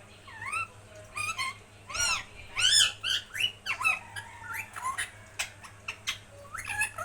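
Pet parrot squawking: a rapid run of short, loud calls, each rising and falling in pitch, some in quick pairs.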